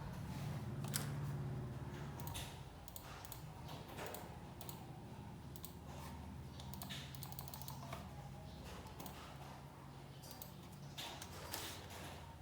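Irregular clicks of keys being pressed on a computer keyboard, over a steady low hum.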